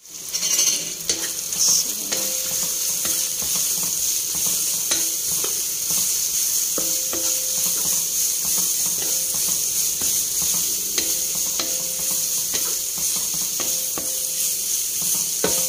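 Sliced onion, garlic and ginger sizzling in hot oil in a nonstick pan, the sizzle loudest in the first couple of seconds, with a wooden spatula scraping and knocking against the pan as it stirs.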